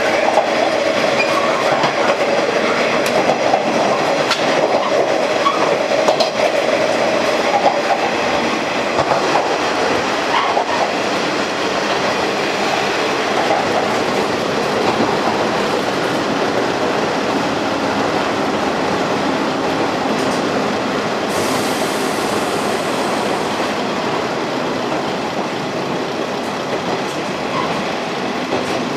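Running noise inside a KiHa diesel railcar under way: a steady rumble with wheels clacking over rail joints, and a high whine that fades after the first several seconds.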